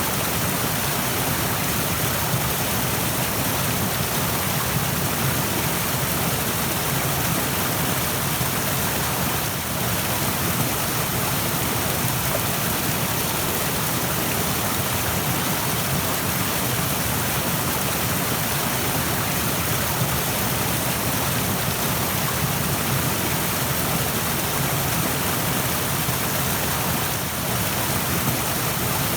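Rushing stream: a steady, dense rush of flowing water.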